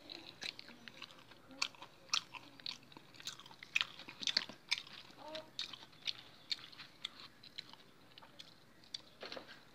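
A person chewing food close to the microphone: irregular crunches and wet mouth clicks, coming in uneven clusters.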